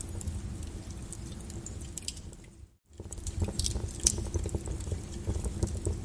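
Wood fire crackling over steady rain, a constant hiss and low rumble with scattered sharp pops. A little under three seconds in, the sound fades out to silence for an instant and comes straight back.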